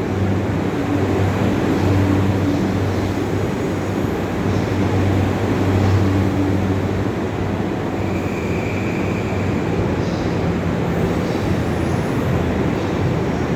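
E235 series electric train pulling into a station platform: a steady rumbling run with a low motor hum, and a brief high tone about eight seconds in.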